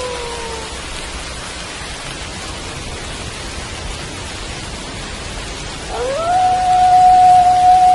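Steady rain falling, with wolf howls over it. One howl trails off and falls in pitch within the first second, then another rises sharply about six seconds in and holds one long, steady note.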